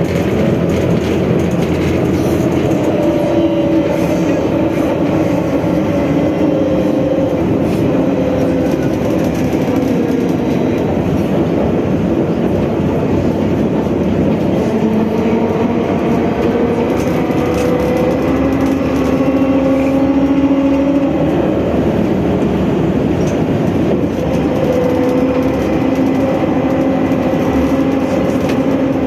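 Trolleybus under way, heard from inside: the electric traction motor whines, its pitch rising and falling several times as the bus speeds up and slows, over a steady rumble of road and body noise.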